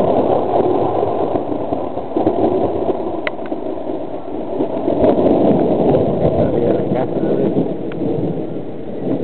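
Loud rolling thunder from a lightning storm rumbling on for several seconds, swelling again about five seconds in before easing off.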